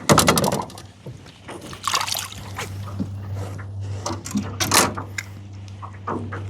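Water splashing hard at the start, then trickling and splashing in shorter bursts, as a hooked fish is fought at the boat. A low steady hum grows stronger from about three seconds in.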